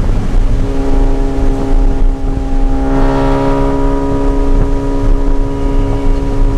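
Mazda RX-8's rotary engine running hard at a steady, unchanging pitch, over a heavy low rumble of road and wind noise.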